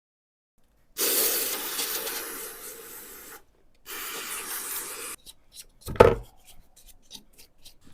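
Abrasive sanding: two rough scraping passes, the first long and loud, the second shorter, followed by a few light clicks and one sharp knock about six seconds in.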